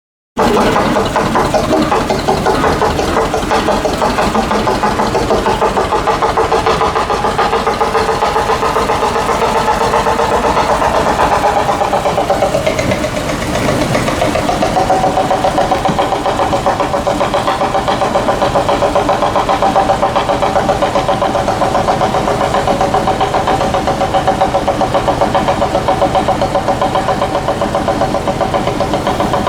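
Locofox locomotive engine running with a steady, rapid pulsing beat; about halfway through its note sags and dips, then it settles back to an even running pitch.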